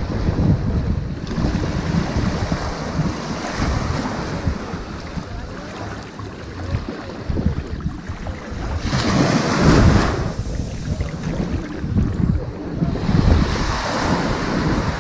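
Ocean surf washing onto a sandy beach in a continuous rushing wash that swells and ebbs. The loudest wave breaks and rushes in about nine seconds in, and another swells up near the end.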